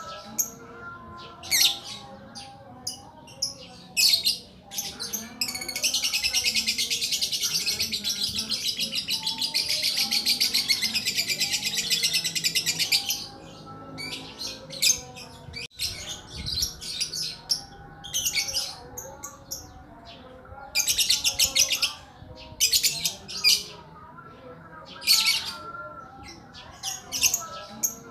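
A songbird known as the lakbet singing: short, very high chirps and whistles, with one long, fast, buzzing trill lasting about seven seconds, starting about five seconds in.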